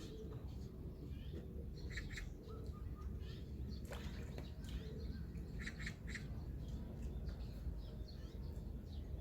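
Birds chirping with short, scattered calls, a few of them quick doubled notes, over a steady low background rumble.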